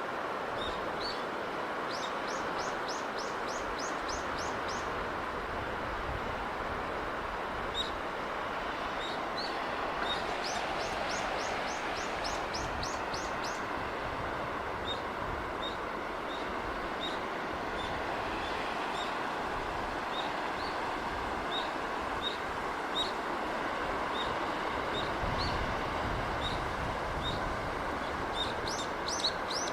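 A steady rushing of sea breeze and surf, with small birds chirping over it. Twice a bird gives a quick run of high falling notes, and again near the end; in between come single chirps about once a second.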